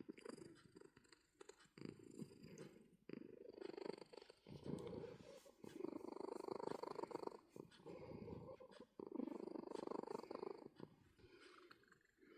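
Domestic cat purring in a steady, rhythmic rumble that swells and dips with each breath, every second or two.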